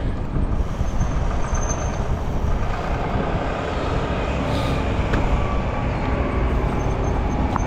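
Steady rumbling wind and traffic noise on a bicycle-mounted camera, heaviest in the low end.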